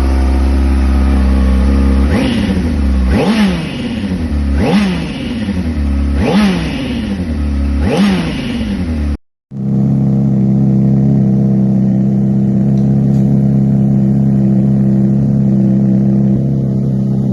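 Honda CBR600RR inline-four engine through an aftermarket MIVV Suono slip-on exhaust: idling, then blipped five times, each rev rising sharply and falling back to idle. After a brief cut it idles steadily.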